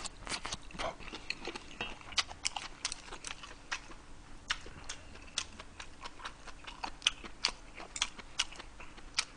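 Close-miked chewing of braised beef short ribs and kimchi: irregular wet mouth clicks and lip smacks, a few every second.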